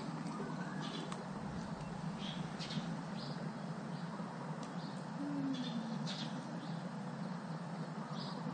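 Birds chirping: scattered short, high chirps over a steady background hiss.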